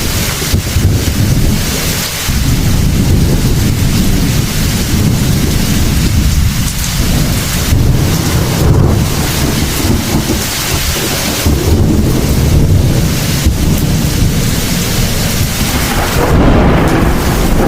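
Heavy thunderstorm: steady heavy rain with thunder rumbling low and continuously, swelling several times.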